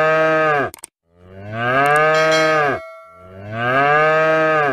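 Cow mooing: three long moos in a row with short gaps between them, each ending in a slight drop in pitch. A brief click comes just under a second in.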